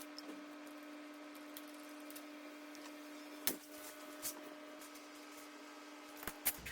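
Faint steady hum with a few scattered sharp metal clicks, from a wrench working the 10 mm bolts on a dirt bike's front fork; the loudest click comes about three and a half seconds in, and a quick pair near the end.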